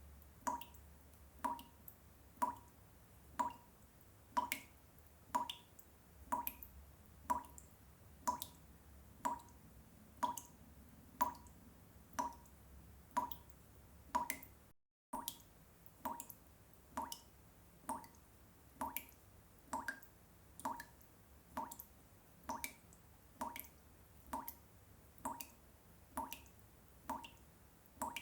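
Water drops dripping steadily into water, about one and a half a second, each a short plink. There is a brief cut-out about halfway through.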